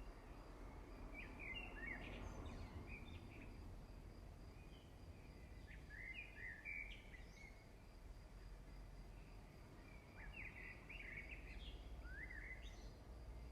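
Faint birds chirping in short bursts of quick twittering notes, several times over, above a steady low background hum.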